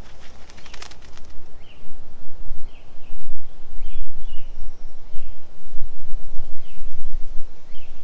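A tūī bathing in a bird bath: a quick run of splashes and wing flutters just under a second in, then short high chirps about once a second, over a loud low rumble.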